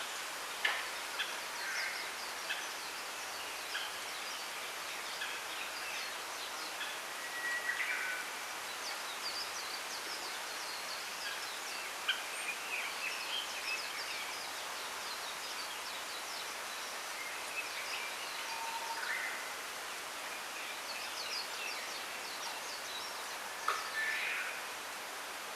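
Small birds chirping and calling in short, scattered notes over a steady rustling hiss of wind in bamboo leaves.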